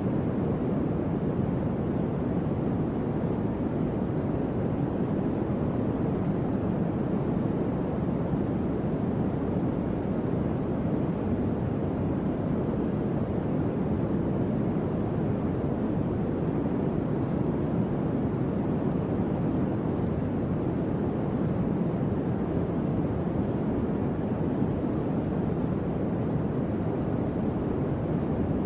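Electric fan running: a steady, even rush of air, deep rather than hissy, with no hum, rattle or change in speed.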